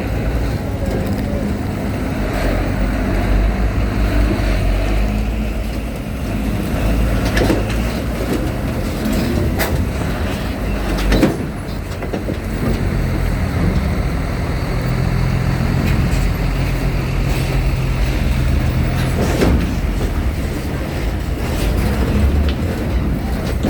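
Heavy trucks' diesel engines running as vehicles drive onto a ferry, a steady low rumble with a couple of sharp knocks about halfway through.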